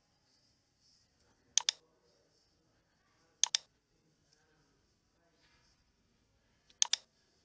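Three sharp computer mouse clicks, each a quick pair of clicks, spaced a couple of seconds apart over a quiet room background.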